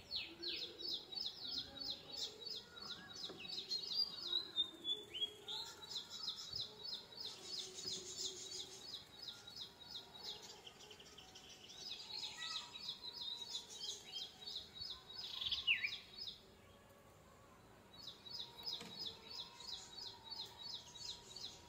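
Bird calling: a fast, even run of short, high chirps, about five a second, broken by a few longer falling whistles. It stops for about a second and a half late on, then starts again.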